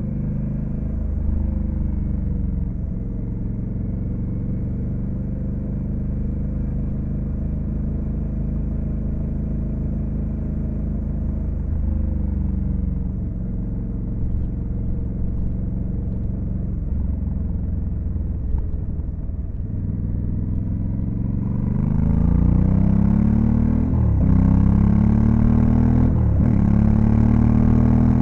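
Honda Africa Twin CRF1100L's 1084 cc parallel-twin engine on the move, running at a steady pitch for most of the time. Near the end it gets louder and the pitch climbs under acceleration, dropping back at each upshift, a couple of times.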